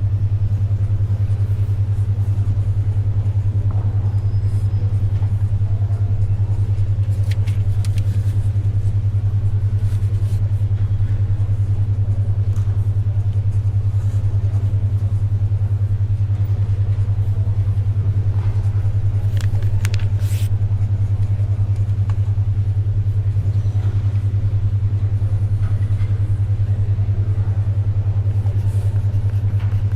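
Steady low hum of a 10.2 Hz alpha-wave brainwave track, beating evenly and unbroken. Faint library ambience lies beneath, with a couple of brief paper rustles or pencil scratches, one around eight seconds in and another around twenty seconds in.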